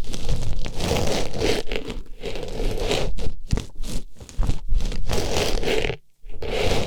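Artificial flower pushed and rubbed inside a microphone's ear, close scratchy rustling and crunching that breaks off briefly about six seconds in.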